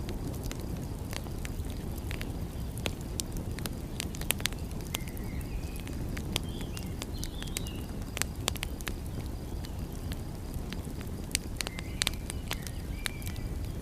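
Wood fire crackling, with frequent sharp irregular pops and snaps over a steady low rushing noise.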